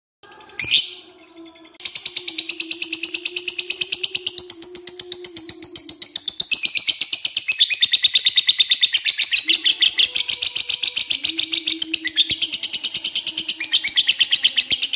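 Lovebird in full song giving a long 'ngekek' chatter: a short call, then from about two seconds in a rapid, unbroken run of high, sharp notes that lasts about thirteen seconds.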